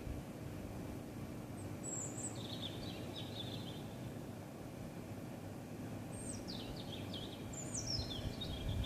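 A songbird singing at night: three short, high phrases, each falling in pitch and breaking into trills, about two seconds in, about six seconds in and near the end. A steady low rumble runs underneath.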